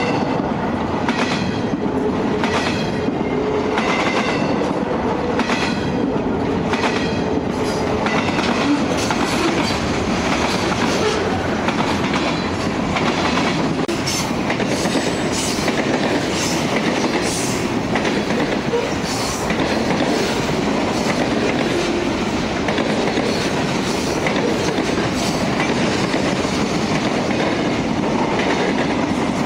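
Freight train cars (gondolas, then covered hoppers and boxcars) rolling past at close range: a steady, loud rumble of wheels on rail with clicking wheel beats. The clicks are regular at about one a second for the first several seconds, then come more irregularly.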